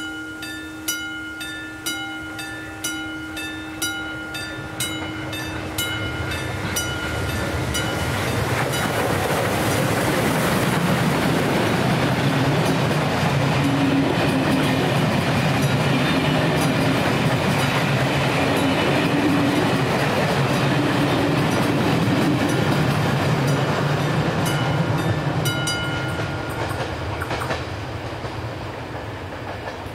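A level-crossing warning bell strikes about once a second. A passenger train then passes, its wheels clattering over the rails and drowning out the bell. Near the end the bell is heard again and stops as the crossing lights go out, while the train noise fades.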